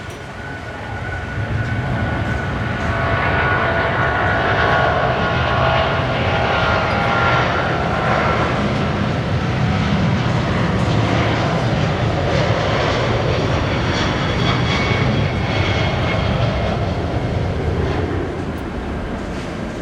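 A Cathay Pacific Boeing 777-300's twin Rolls-Royce Trent turbofan jet engines running loud. The sound builds over the first few seconds to a steady, heavy roar with a whine on top, then eases a little near the end.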